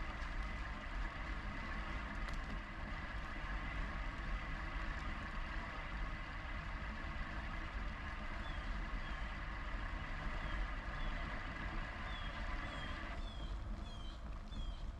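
Steady wind and rolling noise from an e-bike ride. A thin steady whine runs under it and cuts off suddenly near the end. Short high falling chirps repeat through the last few seconds.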